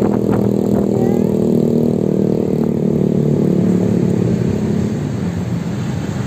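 Motorbike running, a steady hum made of several tones that slowly eases down in pitch and fades about five seconds in.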